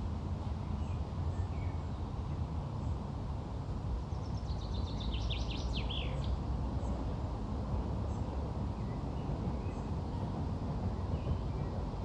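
Steady low outdoor rumble with a bird singing: a quick trill of rapid down-slurred notes lasting about two seconds, a third of the way in, and faint scattered chirps around it.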